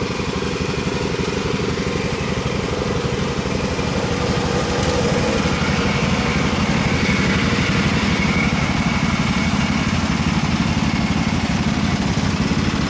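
Small single- or twin-cylinder lawn and garden tractor engine running steadily, getting a little louder about four seconds in, under load while towing a stuck tractor out.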